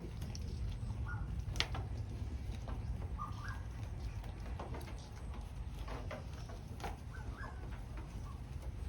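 Scattered short, soft bird or small-animal calls over a steady low rumble, with a sharp click about one and a half seconds in.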